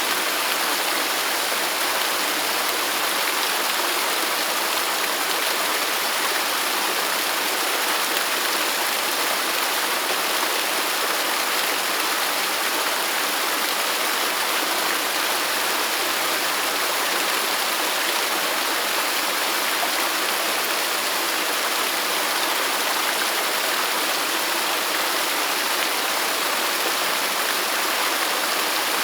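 Waterfall: water falling and rushing in a steady, even hiss with no change throughout.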